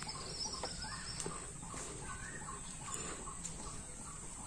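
Birds calling in short notes repeated about three times a second, with a few rising chirps, over a steady high hiss and a few faint clicks.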